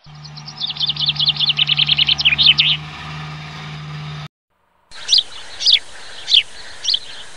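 Birds chirping: a quick run of short, downward-sweeping chirps over a steady low hum, then after a brief break, single chirps spaced under a second apart.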